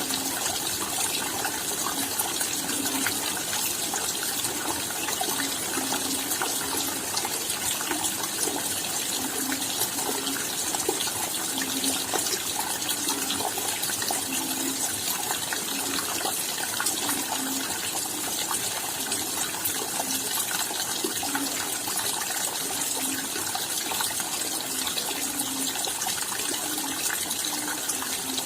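Steady rain falling: a dense, even hiss of many drops, with scattered individual drop hits and irregular low plops.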